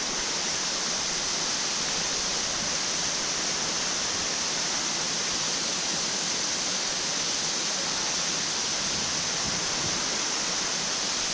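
Powerful waterfall: falling water rushing with a steady, hissing sound that does not change.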